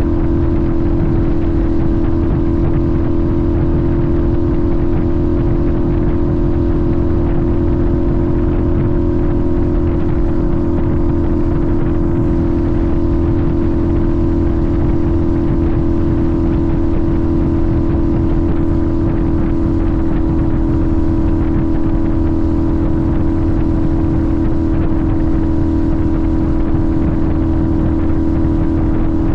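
Sportbike engine holding one steady note at constant cruising speed, with no gear changes or revving, over a steady rush of road noise.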